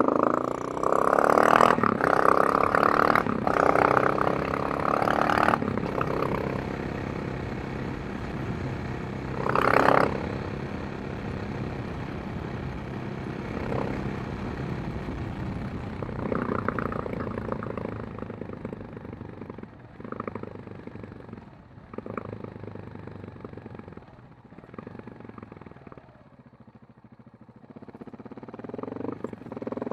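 KTM 690 Enduro R's single-cylinder four-stroke engine and exhaust on the move, accelerating hard with rising and falling revs for the first several seconds. It then runs steadier and quieter, easing off toward the end before building again.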